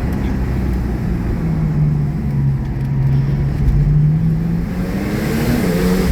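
Twin-turbo Porsche 911 flat-six engine under way, holding a steady low pitch, then rising in pitch as it accelerates again near the end, with a rising hiss over it.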